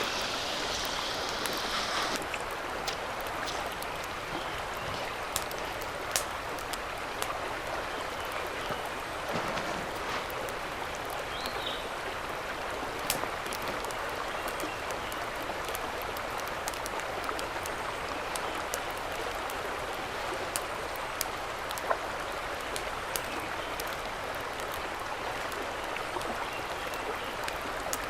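Steady rush of a mountain stream, with scattered sharp pops and clicks over it.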